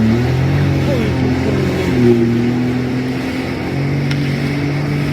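Jet ski engine running at speed, its pitch stepping up and down several times as the throttle is opened and eased.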